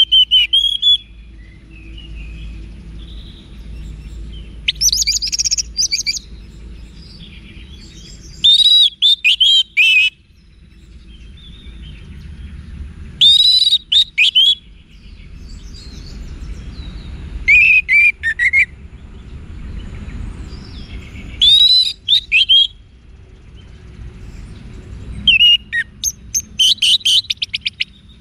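Orange-headed thrush singing loud, varied phrases of gliding whistles and quick notes, about one phrase every four seconds with short pauses between; the last phrase ends in a rapid run of repeated notes.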